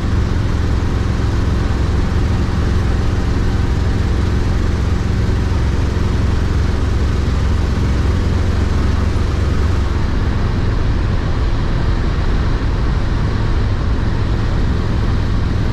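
1972 Oldsmobile Cutlass's 350 Olds V8 running steadily as the car is driven, with engine and road noise.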